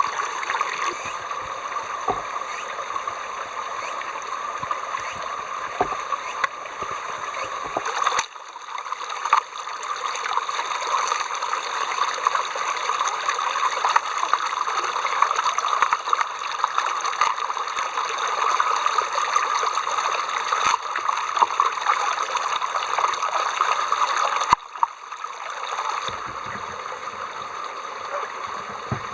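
Water flowing steadily, like a stream. The sound breaks off abruptly and resumes about eight seconds in and again near the end.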